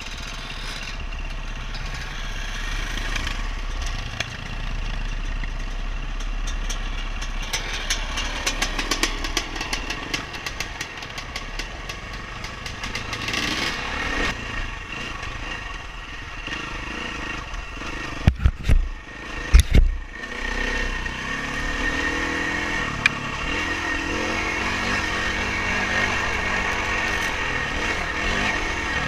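Dirt bike engine running as the bike is ridden over rough trail, with a stretch of fast rattling clatter about a third of the way in. A few heavy thumps, the loudest sounds, come about two-thirds of the way through.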